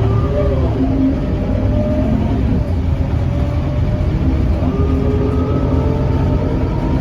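Scania K230UB bus driving, its engine drone running under the whine of the ZF automatic gearbox. The whine dips in pitch near the start, holds, then climbs slowly from about halfway as the bus picks up speed.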